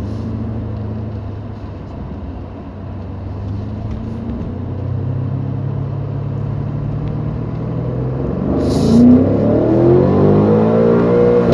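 BMW M5 Competition's twin-turbo V8 running at a steady low pitch that slowly climbs, then accelerating hard from about eight seconds in, its pitch rising and the engine growing loudest near the end.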